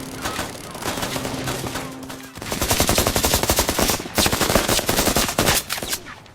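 Automatic gunfire: scattered shots at first, then a dense run of rapid shots from about two and a half seconds in, with a short break near four seconds. A steady low hum runs under the early shots.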